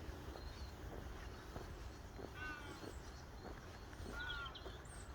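A bird calls twice, short harsh calls about two seconds apart, with faint higher chirps from small birds. Under them run soft footsteps on a path and a low steady rumble of wind.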